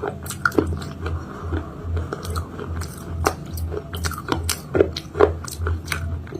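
Close-miked biting and chewing of a homemade chalk-paste cake: irregular sharp, crunchy cracks, some bites louder than others.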